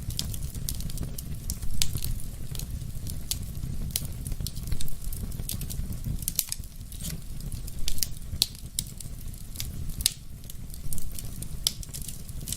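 Wood fire in a fireplace crackling, with many small sharp snaps over a steady low rumble of the flames. A louder pop comes about every three seconds.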